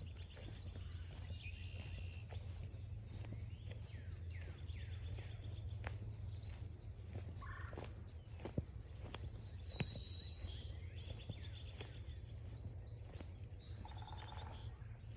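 Several wild songbirds calling and singing at once, with short chirps, slurred whistles and brief trills, over a steady low rumble. Footsteps crunch on a forest trail.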